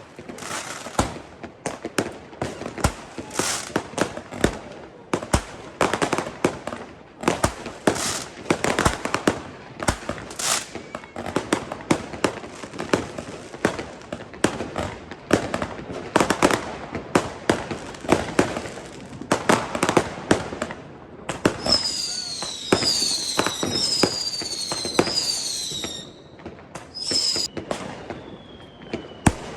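Consumer fireworks and firecrackers bursting in rapid, irregular succession, often several bangs a second. About 22 seconds in, several whistling fireworks let out overlapping falling whistles for about four seconds, and one more falling whistle sounds near the end.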